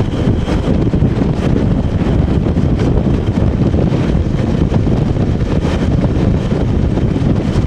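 Heritage train on the move behind an English Electric Class 20 diesel locomotive: a steady, loud rumble of the running train, with wind buffeting the microphone.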